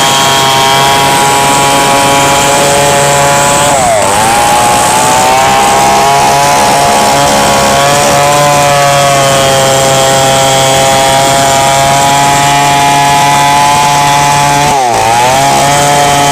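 Chainsaw running at high revs while cutting merbau hardwood, its engine pitch dipping sharply and recovering about four seconds in and again near the end.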